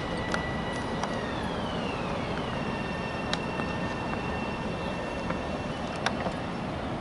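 Long Island Rail Road M7 electric train running past a station platform: a steady rumble with a thin high electric whine that drops in pitch between one and two and a half seconds in, then fades away near the end, with a few sharp clicks.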